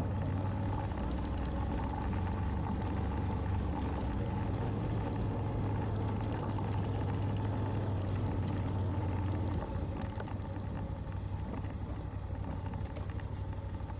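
Dual-sport motorcycle engine running steadily while riding, with wind and trail noise. It eases off slightly about ten seconds in.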